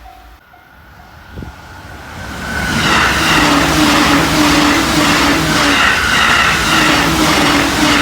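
A JR Joban Line train passing at over 120 km/h. The rush of the train swells in from about two seconds in and stays loud, with steady humming tones, to the end.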